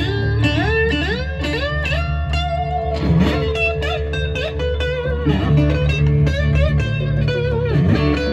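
A live blues-rock band jamming, led by an electric guitar solo full of string bends over a steady bass line.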